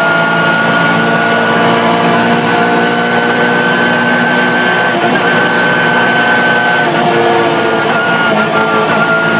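Rally car's engine heard from inside the cabin, running hard at high revs with a steady pitch that edges up, drops near seven seconds and dips briefly again about a second later.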